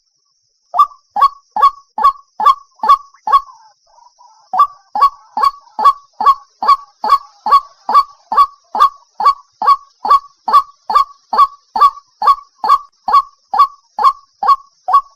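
White-breasted waterhen calling: a fast, even series of loud call notes, each dropping in pitch, about two to three a second, with a brief pause about four seconds in.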